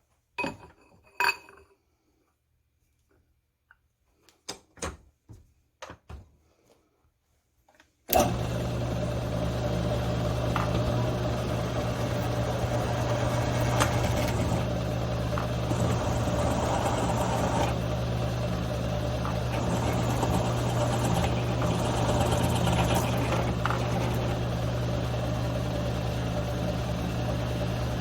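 A few short handling clicks and knocks, then about eight seconds in a milling machine's motor switches on and runs steadily with a low hum, drilling holes in steel cart parts.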